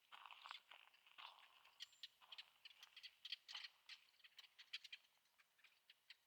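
Faint footsteps crunching on a trail, a quick, irregular run of small crunches and clicks that thins out near the end.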